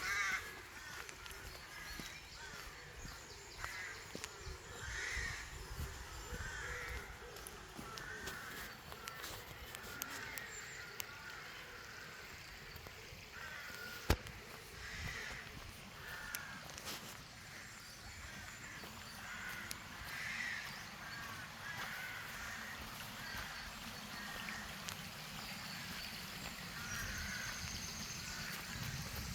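Crows cawing repeatedly, a call every second or so, over a faint outdoor background. A single sharp click about halfway through.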